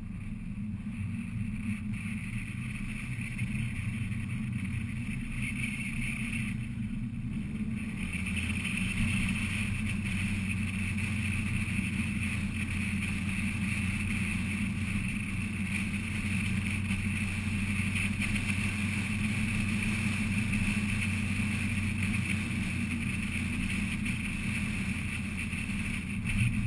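Fiat 500 Abarth's turbocharged 1.4-litre four-cylinder engine running at a steady pace, with tyre and road noise. The engine eases off briefly about seven seconds in, then pulls steadily again.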